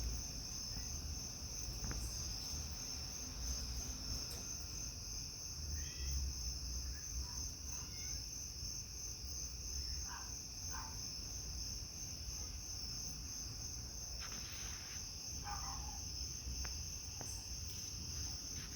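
Steady outdoor insect chorus: a continuous high-pitched trill, typical of crickets, over a low rumble, with a few short faint calls in between.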